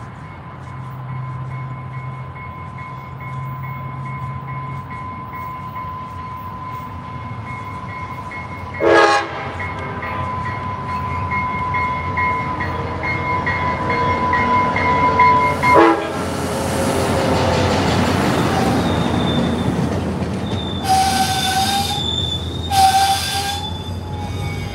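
Trinity Railway Express diesel commuter train arriving: a bell rings steadily and the horn sounds two short blasts, then the engine and wheels grow loud as the locomotive runs past. Near the end the brakes squeal twice as the train stops, overshooting the platform.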